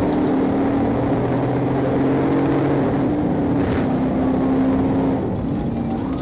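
Police patrol car engine running, with road and wind noise, heard through the in-car dash camera: a steady drone whose pitch shifts slightly a few times.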